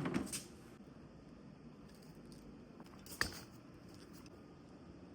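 Handling noise while unpacking: a short rustle and scrape right at the start, then a single sharp click a little after three seconds in, with faint room tone between.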